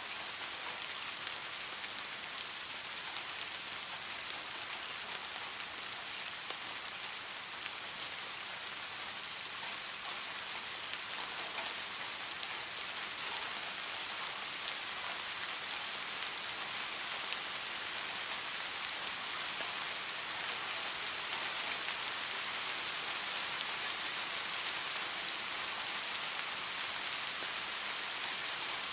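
Steady rainfall, a dense even hiss of drops on a surface with scattered sharper drop ticks.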